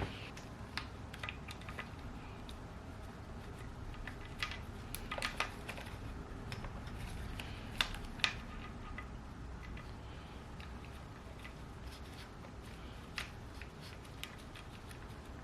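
Light metal clicks and taps of hand tools and parts while a cam chain tensioner is being fitted to a KX450F engine, with a couple of sharper clicks about eight seconds in. A low steady hum runs underneath.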